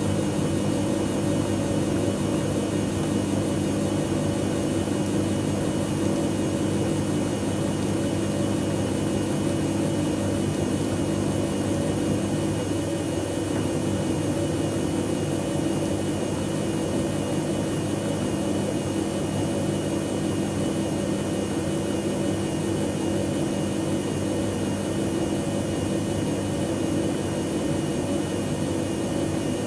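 Dyson Contrarotator CR01 washing machine running mid-cycle on a synthetics programme: a steady motor hum with a faint high whine that holds even throughout.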